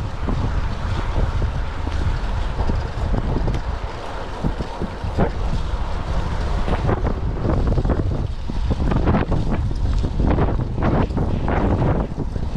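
Strong typhoon wind buffeting the microphone, a loud steady low rumble broken by irregular gusty surges that come more often in the second half.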